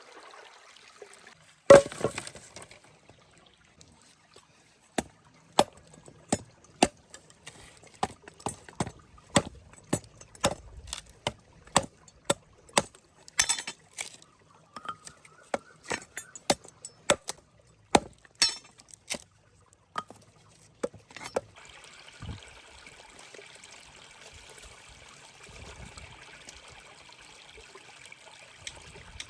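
Cooking utensils knocking and clinking against cookware in a series of sharp separate strikes, roughly one or two a second. A steady hiss takes over about three-quarters of the way through.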